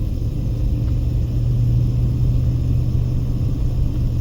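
Car engine and tyre noise heard from inside the cabin while driving: a steady low drone that grows a little stronger about a second in.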